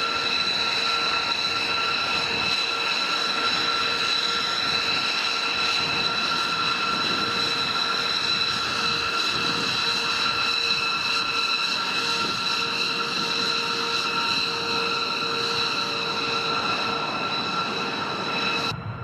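Jet engine running steadily with a high whine of several fixed tones over a rushing noise. It cuts off suddenly near the end, leaving a lower rumble.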